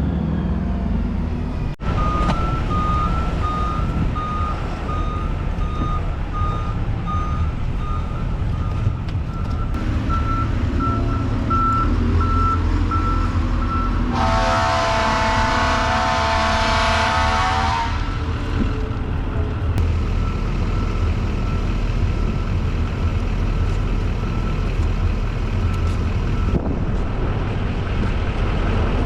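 Truck engine running with its backup alarm beeping steadily as it reverses. The beeping stops for a few seconds midway while a loud, steady tone with a horn-like edge sounds for about four seconds, and then the beeping resumes.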